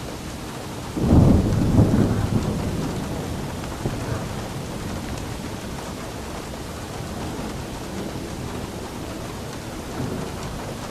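Steady rainfall with a clap of thunder about a second in, rumbling and fading over the next few seconds, and a fainter rumble near the end.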